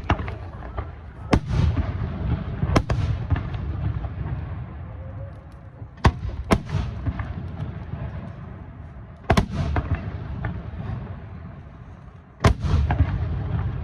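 Aerial firework shells bursting in the sky: about seven sharp reports a second or more apart, two of them close together near the middle. Each is followed by a low rolling rumble and crackle.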